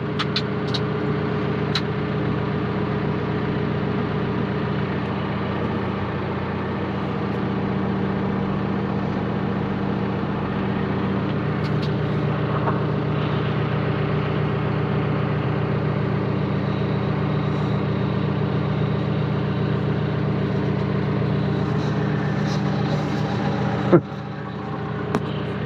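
John Deere 310K backhoe loader's diesel engine idling steadily. A single sharp knock comes near the end.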